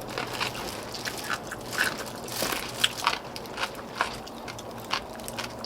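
Close-up eating sounds: chewing and slurping with irregular sharp clicks and clinks of utensils against bowls.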